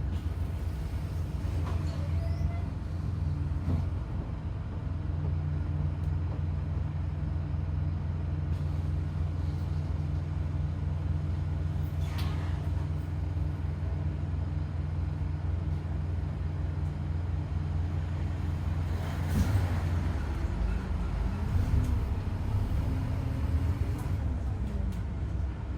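2008 Scania N230UD double-decker bus with its 9.3-litre Scania DC9 engine running steadily on the move, with a strange howling tone that wavers in pitch over the engine, which the uploader thinks sounds like a dodgy bearing or worn-out tyres. A brief hiss comes about twenty seconds in.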